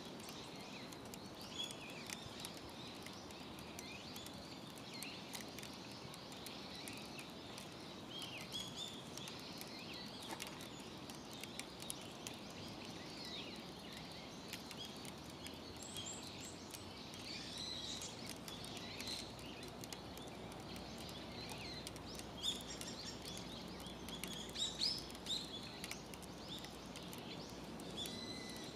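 Small birds chirping and trilling again and again over a steady outdoor background noise, the calls busiest near the end.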